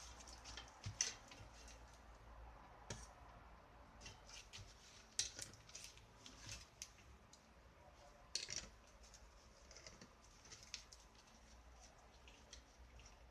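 Faint, irregular clicks and light scrapes of small parts being handled, with sharper clicks about 1, 3, 5 and 8.5 seconds in.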